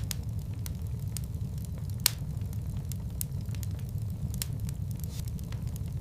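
Fire burning in a fireplace: a steady low rumble of flames with scattered sharp crackles and pops, one louder pop about two seconds in.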